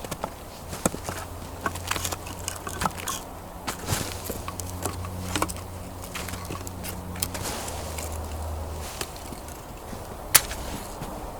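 Irregular knocks and clicks of firewood being handled, with one sharp knock about ten seconds in, over a low steady hum.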